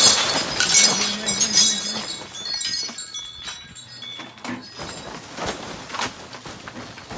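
Ice and crusted snow cracking and breaking up, with bright glassy tinkling of ice pieces, loudest in the first two seconds and then thinning to scattered cracks and clicks.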